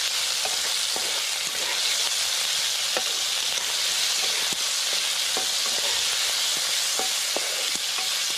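Squid, tomatoes and onions sizzling in hot oil in a wok. A wooden spatula stirs them, tapping and scraping the pan in short, irregular clicks over the steady hiss.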